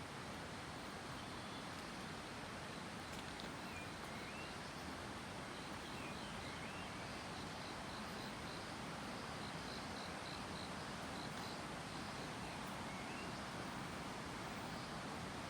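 Forest birds calling over a steady rushing background hiss: runs of short, high notes repeated several times a second through the middle, and a few brief upward chirps.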